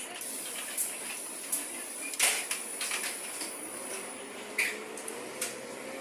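Cabin noise of a LAZ A183 city bus under way: a steady hiss with scattered rattles and knocks, the loudest a little past two seconds in, and a faint whine that slowly rises in pitch in the second half.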